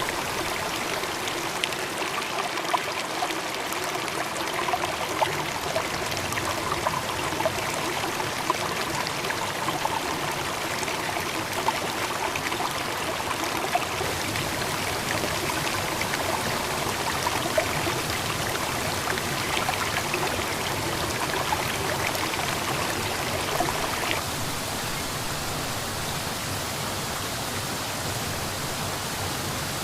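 Running water with a steady rush and small splashes and ticks on top; about 24 seconds in the sound changes abruptly to a smoother, even rush.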